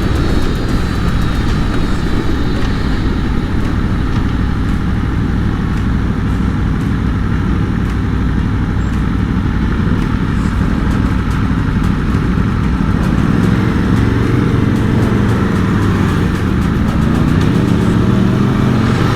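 Aprilia Tuono V4 motorcycle under way, its V4 engine running under a steady rush of wind on the microphone; about two-thirds of the way through the engine note rises steadily as the bike accelerates.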